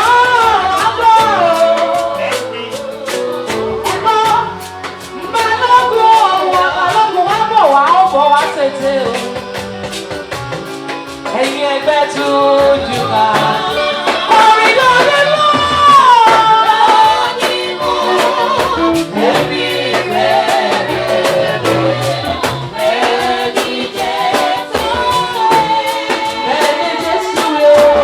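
Live gospel music: a singer's voice bending and sliding through runs over a praise band with drums.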